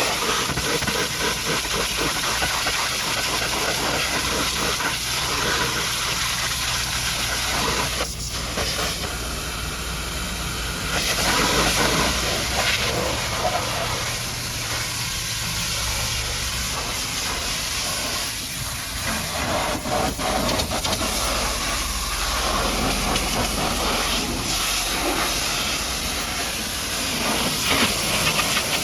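High-pressure washer jet spraying a muddy truck: a loud, steady hiss of water whose tone shifts every few seconds as the jet moves over different surfaces, with a low hum underneath at times.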